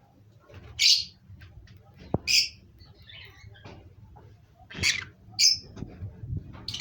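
Pet birds calling: about five short, sharp high-pitched chirps a second or so apart, with faint clicks between them.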